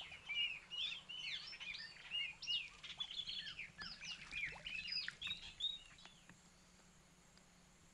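Many small birds chirping at once, a busy stream of short, overlapping chirps that stops about six seconds in.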